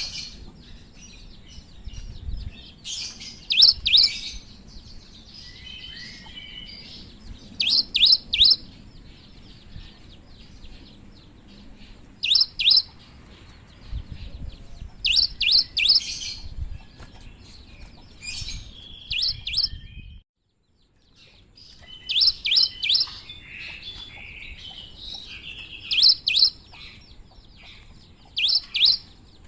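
Cinereous tit (gelatik batu) calling: short groups of two to four sharp, high notes repeated every few seconds, with fainter twittering between them. The sound cuts out briefly about twenty seconds in.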